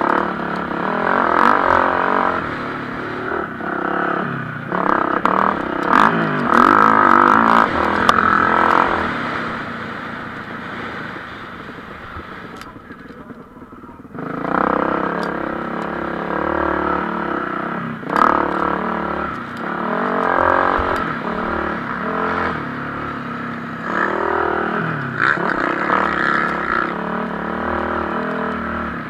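Several motocross bikes racing on a dirt track, their engines revving up and down through gear changes and corners. The engine noise dies down about halfway through, then picks up again as bikes come back past.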